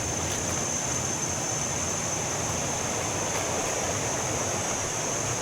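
Steady rushing water of a jungle waterfall stream, with a steady high-pitched drone over it.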